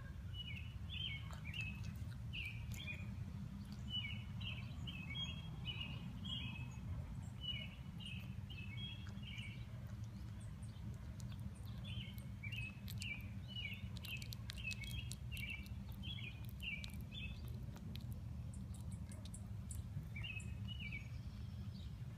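A bird chirping in runs of short, quick high notes: a long run in the first half, another in the second half and a brief one near the end. A steady low hum runs underneath.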